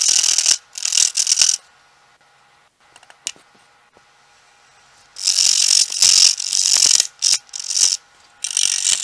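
Turning tool cutting into a spinning bark-covered log on a wood lathe, in loud scraping bursts. The cutting stops for about three and a half seconds in the middle, when only the lathe's faint steady hum is left, and then resumes.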